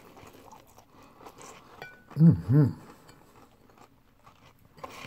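Close-miked chewing of fried chicken, mostly faint. About two seconds in comes a loud two-part "mm-hmm" hum of approval.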